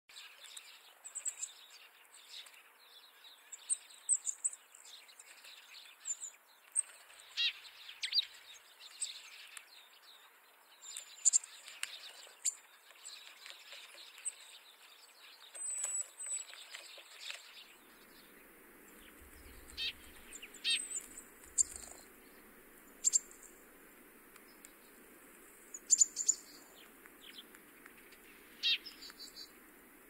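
Small birds chirping: short, sharp, high notes at irregular intervals over a faint steady hiss, which grows fuller a little past the middle.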